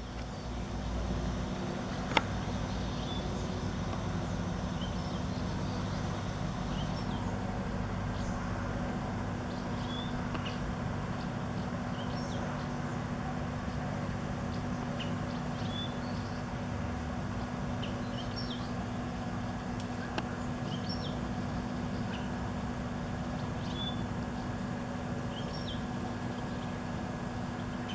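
A steady low mechanical hum, with short high chirps of small birds scattered through it and a single sharp click about two seconds in.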